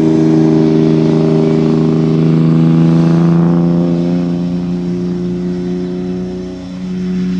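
A steady drone holding one unchanging pitch with several overtones, the higher ones fading away about halfway through.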